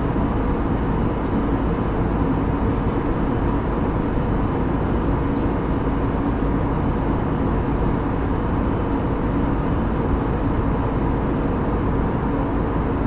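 Steady cabin noise of an Airbus A320neo airliner: an even rush of air with a steady engine hum underneath, unchanging throughout.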